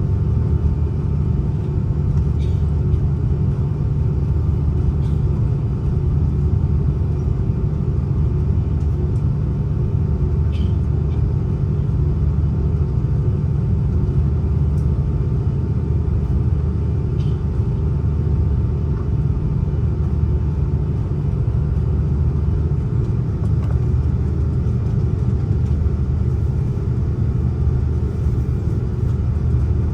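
Steady low rumble of an Airbus A330-300 airliner cabin in flight, the engines and airflow running evenly with a faint steady hum over it and a few faint clicks.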